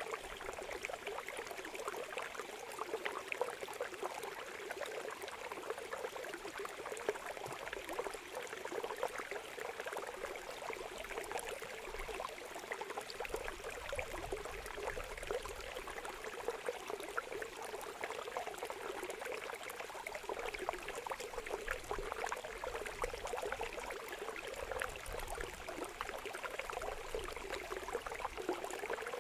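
Running water trickling steadily, a dense patter of small splashes like a shallow stream or small fountain.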